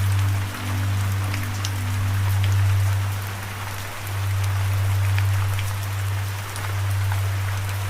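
Steady rain hiss with scattered individual drop ticks, laid over a low held musical drone that fades and comes back in every two to three seconds, with a few higher held notes above it in the first second or two.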